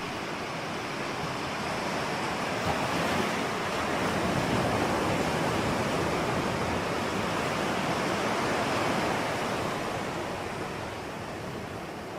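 Ocean surf: a steady rush of breaking and washing waves that swells over the first few seconds, holds, then eases off near the end.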